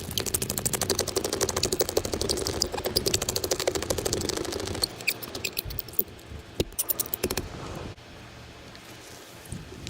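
Razor blade scraping excess cured pit-filler resin off windshield glass to trim the chip repair flush, in rapid short strokes. The strokes come thick for about five seconds, then a few scattered ones before they stop.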